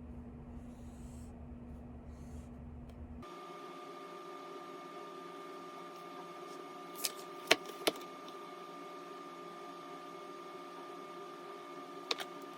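A steady low electrical hum. About three seconds in it cuts to a different appliance hum with a higher whine, and a few sharp clicks or taps come around the middle and again near the end.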